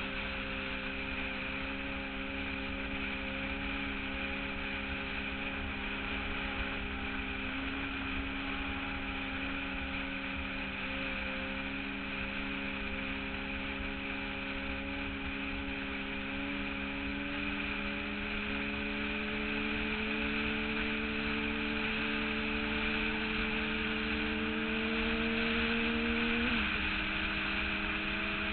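Sport motorcycle engine running steadily at highway speed under wind rush. Its pitch creeps slowly upward and then drops suddenly near the end.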